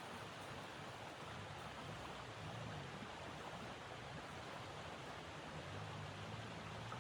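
Steady rushing noise of blizzard wind, even and unbroken.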